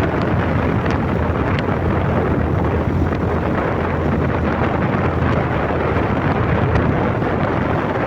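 Steady, loud wind buffeting the microphone over the road and engine noise of a moving vehicle, with a few faint ticks.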